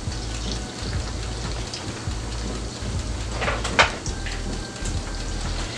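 Dumplings frying in hot oil: a steady sizzle with fine crackling, and a brief louder noise about two-thirds of the way in.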